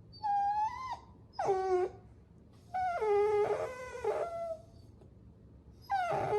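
Puppies whining: four high-pitched whines, the second falling sharply in pitch and the third a longer, wavering run of whimpers.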